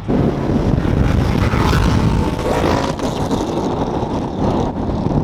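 Loud, rowdy car exhaust as a car accelerates hard at full throttle, the engine note climbing briefly about two and a half seconds in.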